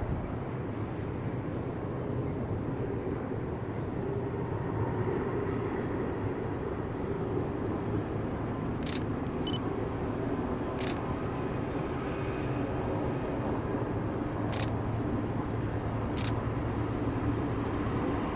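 BNSF diesel freight locomotives running downhill, a steady low engine rumble with an even drone, broken by four sharp, thin clicks in the second half.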